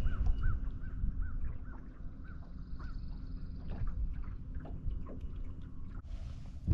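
A bird calling a quick series of short, repeated, arched notes that slow and thin out after a few seconds, over a steady low rumble. A short burst of hiss comes near the end.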